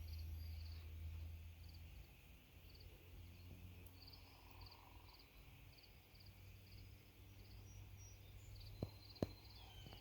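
Faint, steady chirping of a cricket: a short pulsed chirp repeating about every two-thirds of a second, over a low hum, with two sharp clicks near the end.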